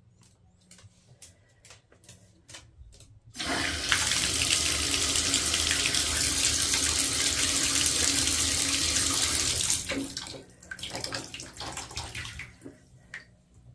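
Tap water running into a sink: turned on about three and a half seconds in, it runs steadily for about six seconds, then is shut off, leaving drips and small splashes. Faint clicks come before it starts.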